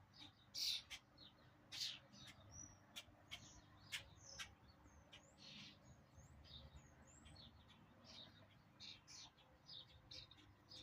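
A group of small birds chirping and calling: many short, sharp chirps, with a few quick rising notes in the middle, scattered irregularly.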